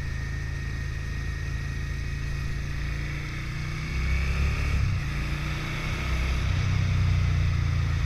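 Motorcycle engine running while riding, a steady low drone that gets louder about four seconds in.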